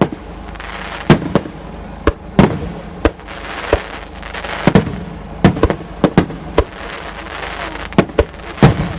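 Aerial firework shells bursting in a rapid, irregular string of sharp bangs, well over a dozen in a few seconds, some following each other within a fraction of a second.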